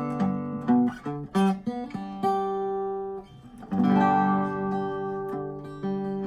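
A 1952 Gibson L-48 archtop acoustic guitar, its broken braces and cracked neck block freshly repaired, being played: chords strummed and plucked and left to ring. The playing drops away briefly about three seconds in, then a fresh strummed chord rings out.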